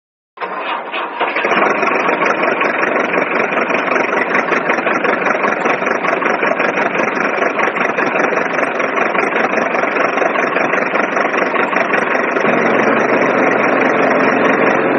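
A small engine starts running about half a second in and keeps going at a steady speed with a fast, even clatter. A lower hum joins in near the end.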